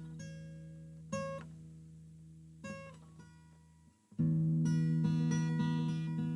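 Background acoustic guitar music: single picked notes ringing out and fading, then a louder chord struck about four seconds in and picked on.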